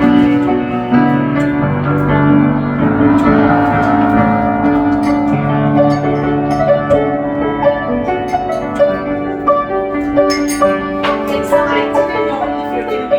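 Piano music: held low chords under a melody of single notes.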